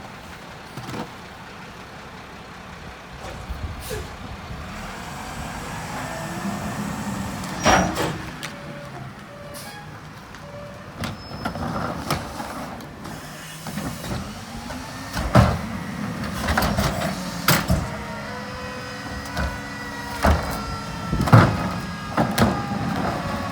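Mack MRU garbage truck with a McNeilus rear-loader body working: the engine revs up and settles twice, and several loud metal bangs and clanks go off over the running truck.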